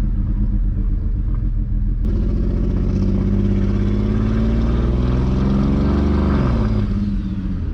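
Single-turbo BMW 335i straight-six pulling under acceleration, its revs climbing from about two seconds in and dropping quickly near the end. The engine is still running with a misfire that the owners put down to a failing ignition coil.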